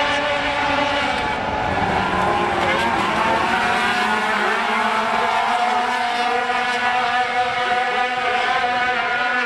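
A field of sport trucks racing just after the start, several engines running hard at once. Their overlapping engine notes drift slightly up and down.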